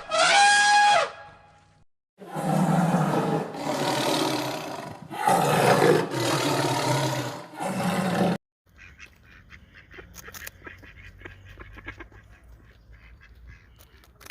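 A farm animal giving about five loud, rough calls in quick succession, followed by a quieter stretch of faint clicks and shuffling.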